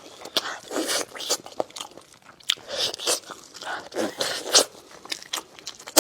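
Close-up chewing and biting of tender meat coming off the bone, in irregular bursts about a second apart.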